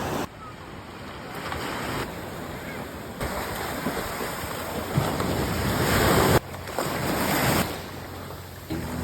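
Ocean surf washing onto a beach, swelling and easing as the waves come in, with wind buffeting the microphone. The sound changes abruptly several times between short takes.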